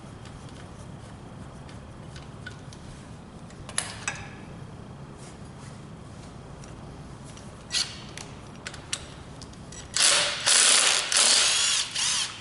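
Mechanic's tool work on an engine in a workshop: a few sharp metallic clicks, then near the end about two seconds of loud, noisy bursts broken by short gaps, over a steady low background hum.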